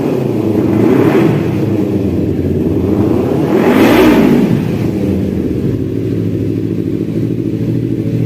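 Kawasaki Ninja FI motorcycle engine idling through a Triton Exos aftermarket exhaust, revved twice with short throttle blips, about a second in and a stronger one around four seconds in, each rising and falling back to idle.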